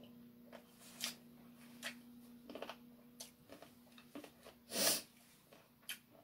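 Close-up eating sounds of a person chewing fried chicken: scattered small wet clicks and smacks, with one loud sharp breath through the nose about five seconds in. A faint steady hum sits underneath.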